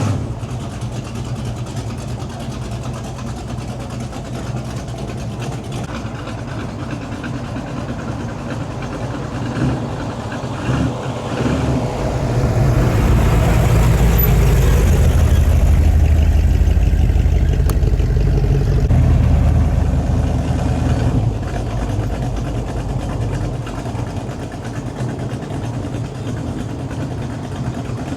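Car engines running as cars drive slowly past. A louder car passes about halfway through, its low exhaust note building and then fading away.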